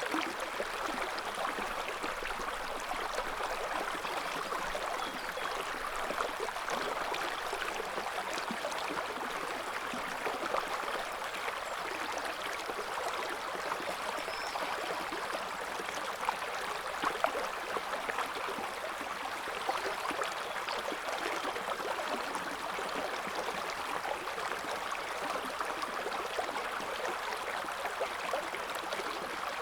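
River water flowing over stones: a steady rushing with fine splashing and gurgling, even throughout.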